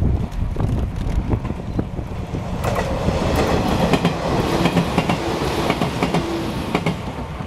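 Izu-Hakone Railway 3000 series electric train passing close by: the rumble of its wheels on the rails swells as it draws level, with the clickety-clack of wheels over rail joints, then eases off as the last car goes by near the end.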